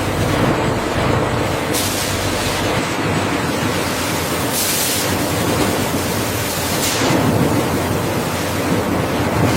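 Steady rushing and rumbling noise of potato-processing machinery, with brief louder hissing swells about two, five and seven seconds in.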